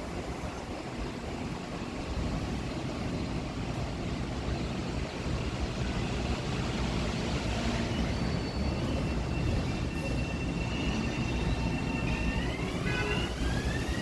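Electric commuter train on the tracks, its rumble growing steadily louder; from about halfway a high whine of the traction motors sets in, and near the end several whine tones glide upward together as the train picks up speed.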